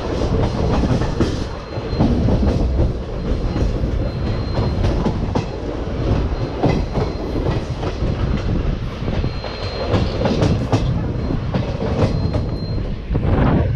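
Passenger train running along the track, heard from inside the coach: a steady, loud rumble with the clickety-clack of the wheels over the rail joints.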